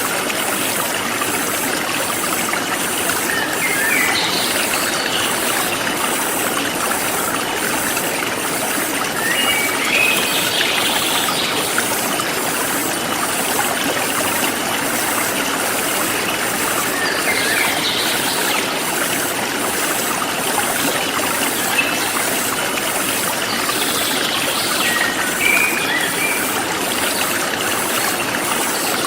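Forest stream flowing steadily over rocks, with birds chirping in short bursts every few seconds. A faint, even high-pitched pulsing runs underneath.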